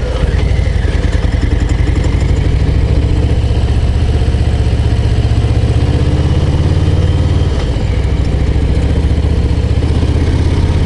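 Harley-Davidson Low Rider ST's Milwaukee-Eight 117 V-twin running steadily under way, its low firing pulses to the fore, dipping briefly about three quarters of the way through before picking up again.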